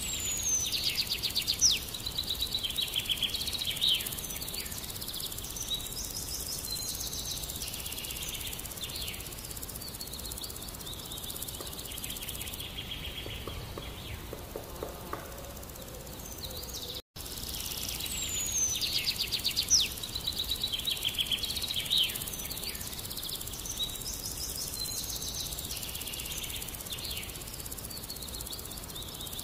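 Small birds chirping and trilling, with rapid trills and a falling whistle, over a steady outdoor hiss of insects. The busiest calling comes in the first few seconds. After a brief dropout about 17 seconds in, the same passage of birdsong repeats.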